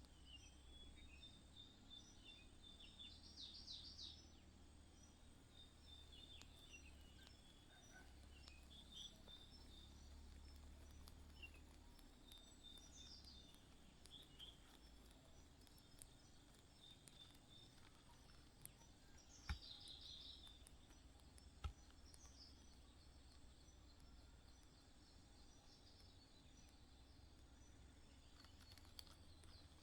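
Small birds chirping faintly and intermittently in short high notes over a low background rumble, with two sharp clicks about two seconds apart past the middle.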